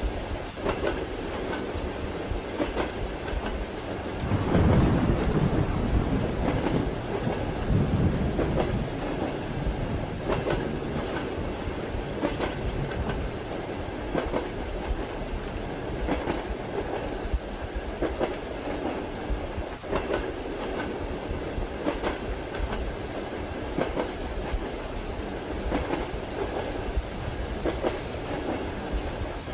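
Ambience of train wheels clacking over rail joints under steady rain. A deep rumble swells about four seconds in and fades by about nine seconds.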